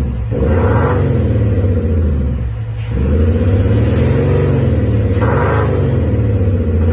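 Mercedes-Benz GLE400d diesel SUV revved repeatedly in the stationary car, its engine note overlaid by a JUST Active Sound virtual exhaust system playing a synthetic exhaust sound through added speakers. The pitch climbs and falls about three times, with a short lull near three seconds in.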